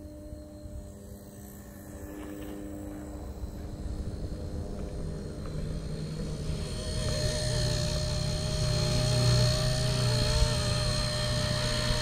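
Blade Nano S3 micro electric RC helicopter buzzing in flight, getting louder from about halfway through, with a whine that wavers up and down in pitch.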